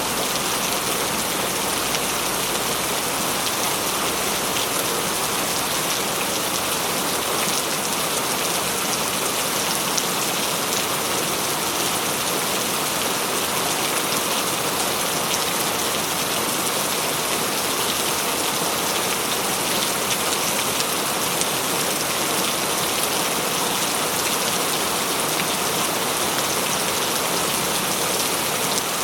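Steady heavy rain falling and splashing on surfaces, a dense hiss with many small drop ticks.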